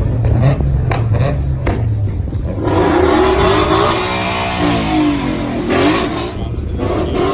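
A car engine revving over a low engine rumble. It is loudest from about three to six seconds in, its pitch rising and falling.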